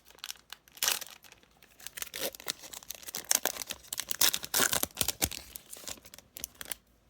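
Foil trading-card pack wrapper being torn open and crinkled by hand: a string of irregular crackling rips and rustles that stops shortly before the end.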